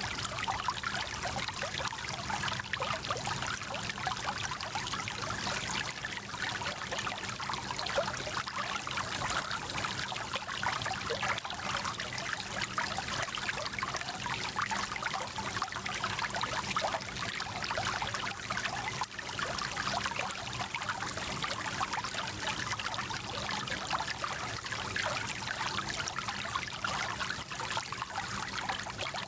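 Small mountain stream flowing and babbling over stones, a steady, unbroken rush of water.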